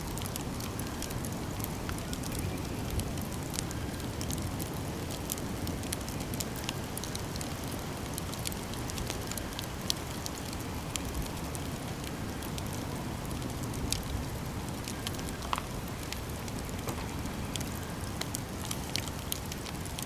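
Campfire crackling: a steady hiss of burning wood with frequent small pops and snaps.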